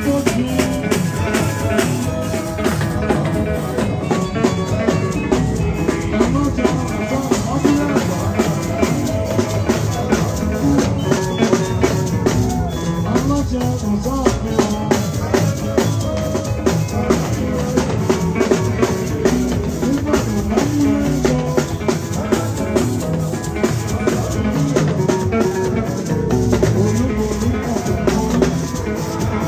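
Dance-band music: a drum kit and percussion keep a dense, steady beat, with guitar.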